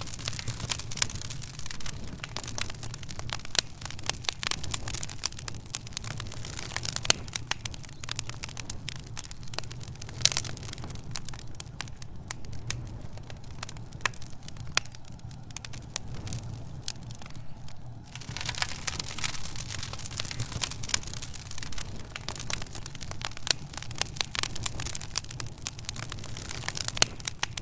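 Wood fire in a fireplace crackling, with many sharp pops and snaps over a low steady rumble. The crackling thins out for a few seconds around the middle, then picks up again.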